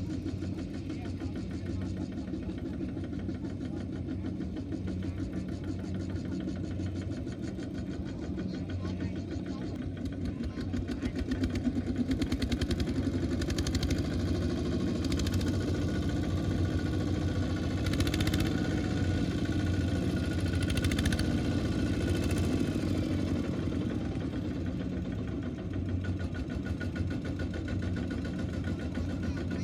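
Small farm tractor engine running steadily with a low, even pitch, growing louder from about twelve seconds in for about ten seconds before easing back.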